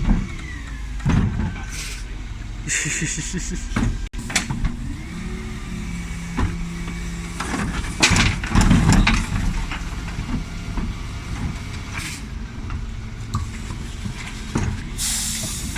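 Dennis Elite 6 bin lorry running at work, with a pitched whine that rises about four seconds in and then holds steady for a few seconds, and short sharp hisses of air, the loudest near the end.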